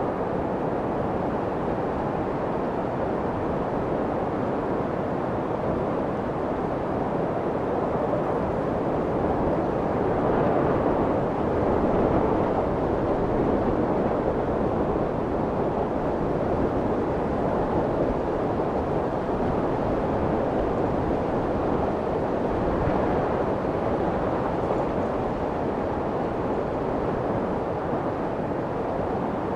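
Steady, muffled white noise: an even, low rushing hiss with little treble, played to soothe a crying baby by imitating the sound of the womb. It swells slightly about ten seconds in.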